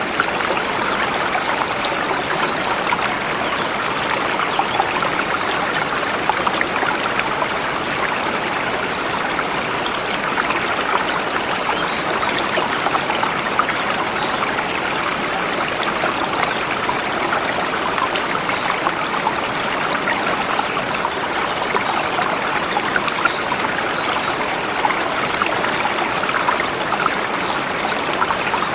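Forest river flowing over rocks: a steady rushing and splashing of water.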